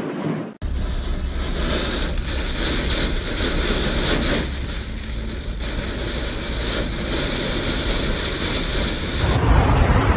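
Wind buffeting the microphone during a thunderstorm: a steady rushing noise with a heavy low rumble. It changes to a different rough noise about nine seconds in.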